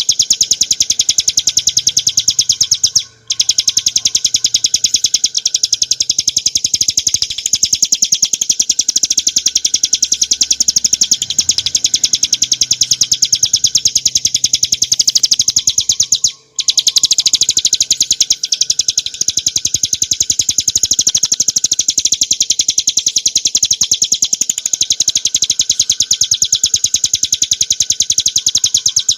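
Ciblek gunung (a prinia) singing a rapid, unbroken trill of high notes, the fast buzzing 'ngebren' delivery. It breaks off briefly about three seconds in and again about sixteen seconds in.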